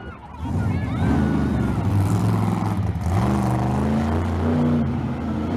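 Monster truck engine running and revving, its pitch climbing about three seconds in and then holding high.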